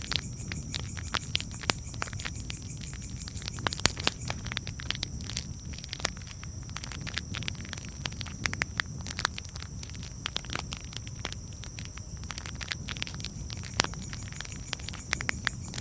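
Wood campfire crackling, with frequent irregular sharp pops and snaps over a low, steady rumble of the burning fire.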